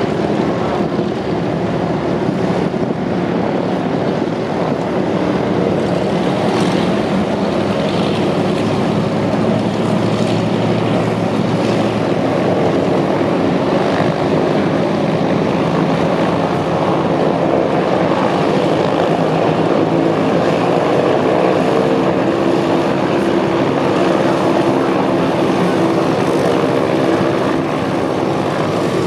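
Douglas DC-3/C-47 Dakota radial piston engines and propellers running with a steady drone. The pitch of the engine notes shifts slightly a little past the middle.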